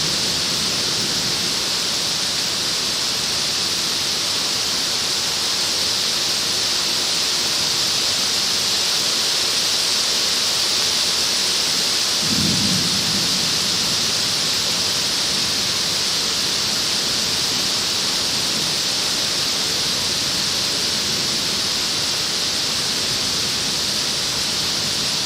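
Heavy downpour, a steady dense hiss of rain pelting the plastic sheet covering the camera. About halfway through a short low rumble of thunder breaks in and fades.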